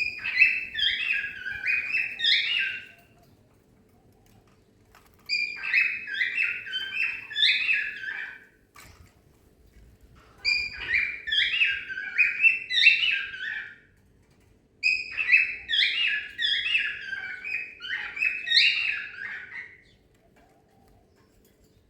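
Cockatiel song: four phrases of quick, warbled chirps and whistles, each lasting about three to five seconds, with short pauses between them.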